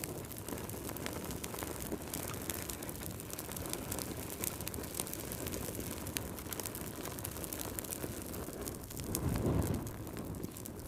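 Wood fire crackling, with many small sharp pops over a low rumble of burning, and the rumble swelling briefly louder about nine seconds in.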